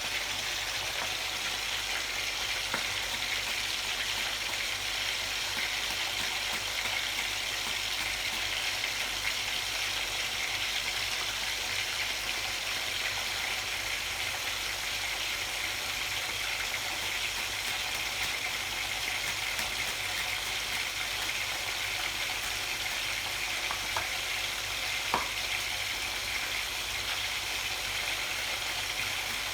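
Fish-sauce-marinated pork frying in oil in a pan on low heat, a steady even sizzle. A single sharp knock sounds once about 25 seconds in.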